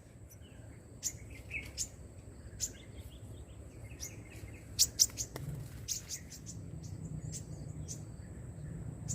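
Small birds chirping: short, sharp chirps at irregular intervals, with faint twittering between them, over a low steady hum that grows from about halfway through.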